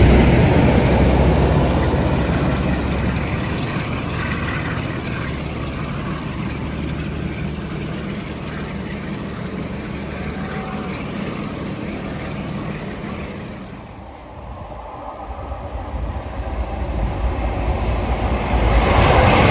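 A train passing at speed and fading as it goes away. In the last few seconds another train comes up, growing louder until it is close.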